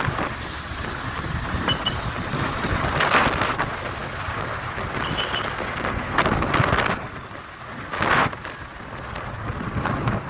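Motorcycle on the move with heavy wind buffeting on the microphone over the engine, with louder swells of wind noise about three seconds and eight seconds in.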